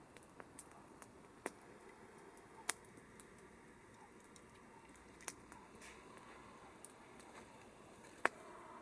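Campfire wood crackling: irregular sharp pops and snaps over a faint steady hiss, with one louder pop near the end.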